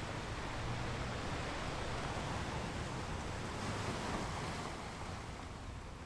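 Gentle ocean waves washing over a shore: a steady rushing surf that swells gently and eases off toward the end.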